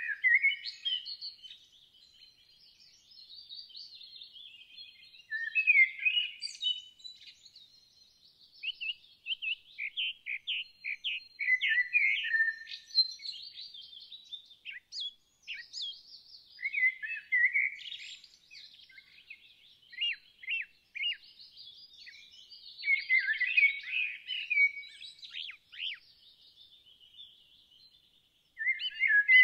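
Songbirds singing: phrases of quick, high chirps and trills that come every few seconds with short lulls between them.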